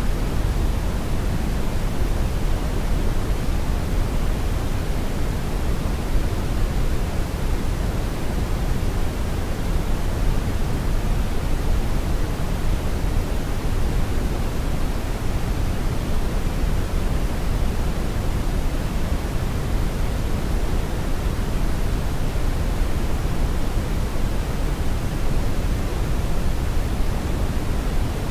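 Steady brown noise: a deep, even rumble of synthetic noise, strongest in the bass and thinning out towards the treble, with no changes or events.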